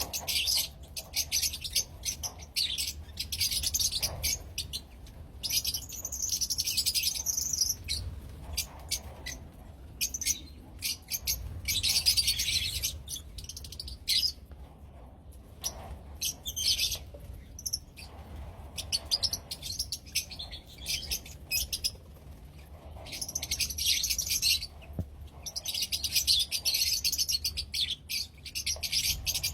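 Lovebirds chirping in rapid, high twittering bursts, separated by short pauses.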